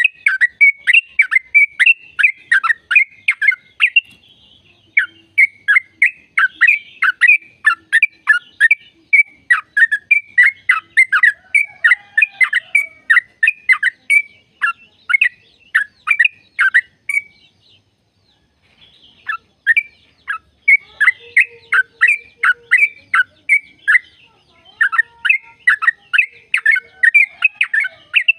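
Yellow-vented bulbul (trucukan) singing a long, rapid run of short, sharply falling notes, about three a second. The run breaks briefly twice, once a few seconds in and once for over a second past the middle.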